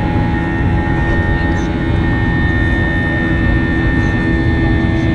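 Airbus A321 airliner's jet engines heard from inside the passenger cabin: a loud, steady rush of engine and air noise with a constant whine through it.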